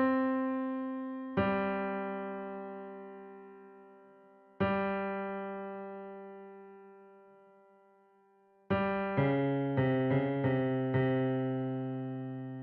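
Background piano music: slow, sustained chords that each ring and fade for a few seconds, then a short run of quicker notes near the end.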